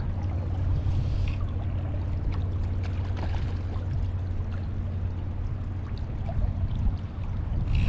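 Fast-flowing river water rushing steadily around a wading angler, with a deep low rumble.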